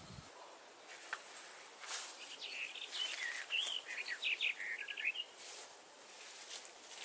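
A songbird singing a quick, warbling phrase of rising and falling chirps from about two seconds in to about five seconds in, with a few short rustling sounds around it.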